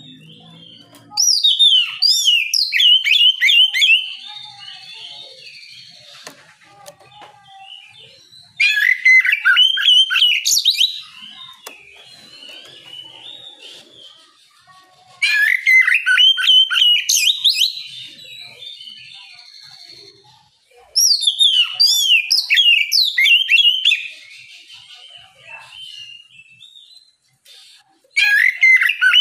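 Oriental magpie-robin (kacer) singing loud, full 'ngeplong' song: bursts of about three seconds of rapid, sweeping whistled notes, repeated about every six or seven seconds, with softer twittering between them. The last burst starts near the end.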